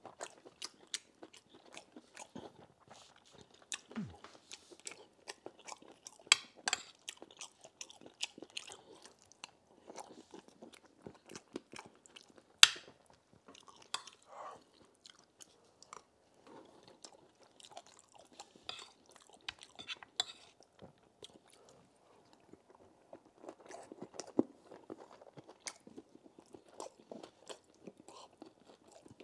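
Close-miked chewing and wet mouth sounds of a person eating mouthfuls of stew with rice and beans, with a few sharper clicks of a metal spoon against the plate, the loudest about halfway through.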